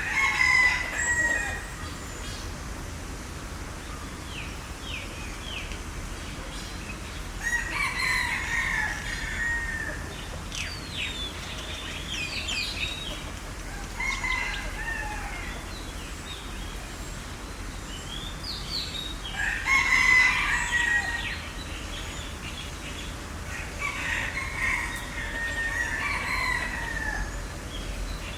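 A large fowl calling loudly five times, once every five to six seconds, each call lasting a second or two, with small birds chirping between the calls.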